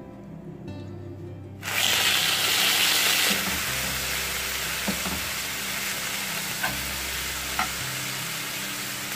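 Marinated chicken pieces going into hot oil in a cast-iron pan, starting to sizzle suddenly and loudly a little under two seconds in. The sizzle then settles to a steady shallow-fry, with a few light scrapes as a metal spoon stirs the pieces.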